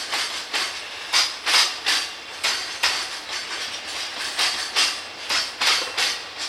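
Freight train's wagons rolling past, their wheels clacking on the rails in a string of sharp, uneven knocks, often in pairs, over a steady hiss of rolling noise.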